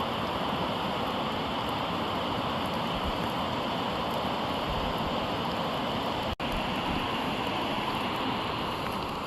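Steady rushing water noise in wet forest, even throughout. It drops out for an instant a little past six seconds in.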